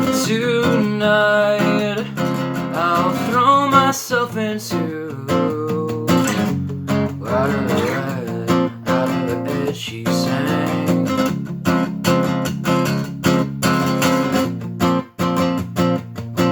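Acoustic guitar being strummed in a regular rhythm, with sustained ringing chords.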